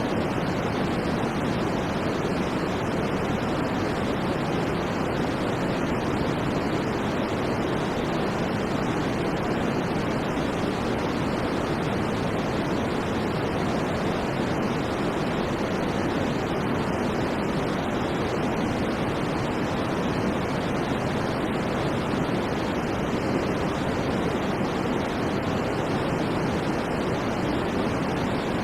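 Steady white noise for sleep: an even, unchanging rush of hiss, fuller in the low and middle range than at the top.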